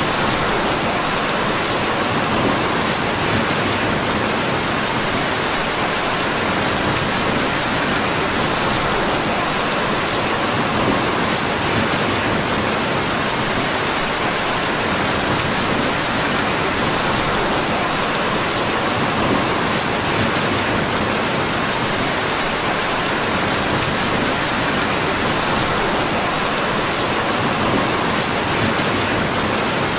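Steady, heavy rain falling and pattering on surfaces, an even unbroken hiss, with a few faint tiny clicks.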